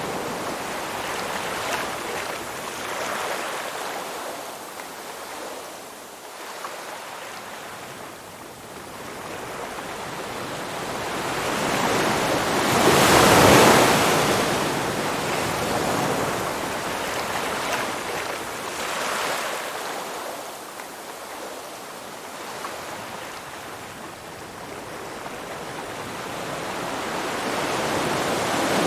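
Ocean waves washing in and receding, with the sound swelling and fading slowly; the largest wave breaks about halfway through.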